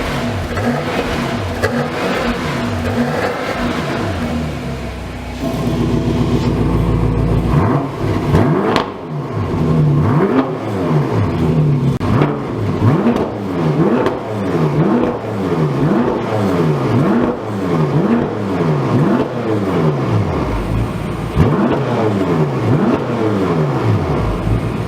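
BMW M6 Gran Coupe's twin-turbo V8 being revved through a custom valved rear muffler. The exhaust valve is closed at first; about six seconds in it opens and the exhaust gets louder and fuller. The engine is then blipped repeatedly, about once a second, the pitch rising and falling with each rev.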